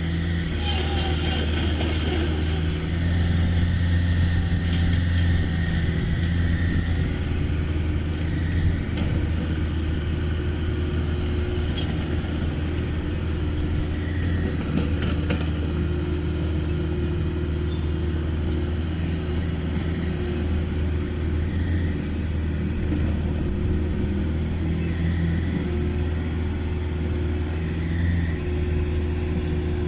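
Diesel engine of a Caterpillar 305.5E2 mini excavator running steadily as the machine digs and loads soil. There is a burst of rattling in the first couple of seconds and a sharp knock about twelve seconds in.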